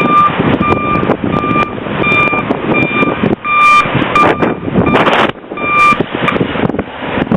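Backup alarm of a snowplow vehicle beeping steadily, a beep about every half second, over engine and wind noise.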